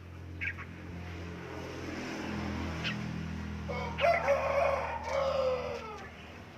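A rooster crowing once, a long call of about two and a half seconds that starts a little under four seconds in and falls in pitch at the end. Before it there are a couple of short high bird chirps, over a low steady hum.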